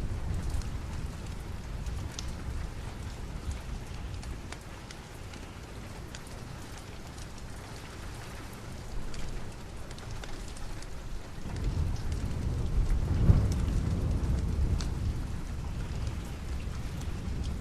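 Steady rain with a fire crackling in scattered sharp clicks. A low roll of thunder builds about two thirds of the way in and rumbles on.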